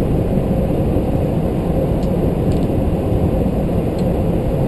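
Steady flight-deck noise inside a McDonnell Douglas MD-11 in flight: a continuous low rush of airflow and engine noise with no distinct events.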